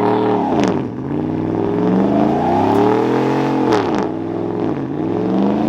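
Truck engine revved up and down repeatedly, its pitch climbing and dropping several times, with two sharp clicks about a second and about four seconds in.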